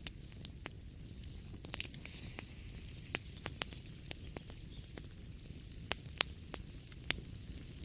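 Wood fire crackling in a fireplace: irregular sharp snaps and pops over a steady low rumble of the flames, with a few louder snaps around three and six seconds in.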